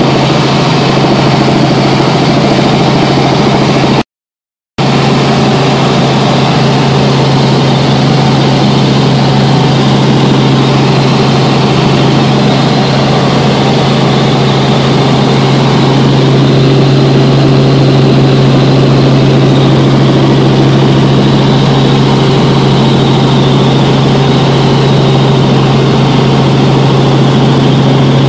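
Helicopter cabin noise: the engine and rotor drone loud and steady, with a strong low hum running under a wide rush of noise. The sound cuts out completely for under a second about four seconds in, then resumes unchanged.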